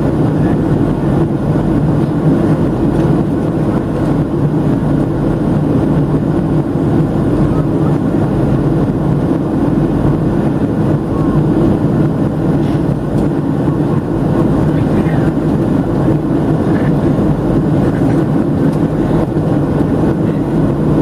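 Steady cabin drone of a Boeing 737-700 in flight: CFM56-7B turbofan and airflow noise heard from inside the passenger cabin, even and unchanging.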